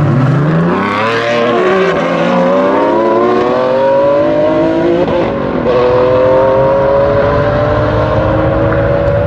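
Ferrari Enzo and LaFerrari V12 engines launching and accelerating hard. The engine notes climb steadily and drop back at upshifts about two and five seconds in.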